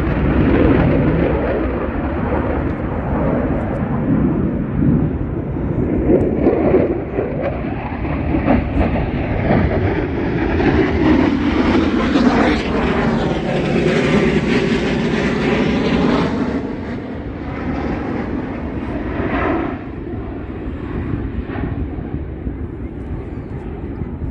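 A Blue Angels F/A-18 jet flying past. The jet noise builds to a loud sweeping pass about ten to sixteen seconds in, then fades.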